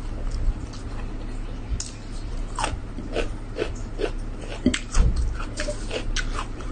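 A person chewing rice and chicken, with irregular wet mouth clicks and smacks.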